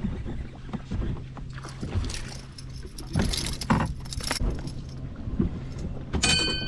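Metallic jangling and clinking in bursts over a steady low hum, with a brief metallic ring near the end.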